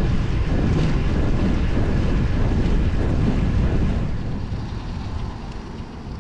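Wind buffeting the microphone on a moving road bike, a loud, rough rushing heaviest in the low end. It dies down from about four seconds in.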